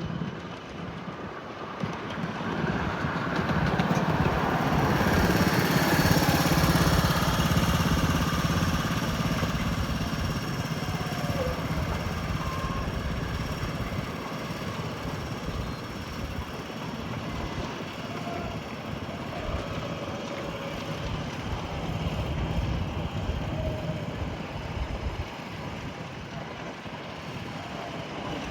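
Railway train running, its noise swelling over the first few seconds, then settling to a steady level.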